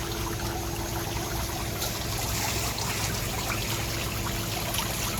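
Water trickling and splashing steadily, as from an infinity pool's overflow edge, with a faint steady hum beneath it.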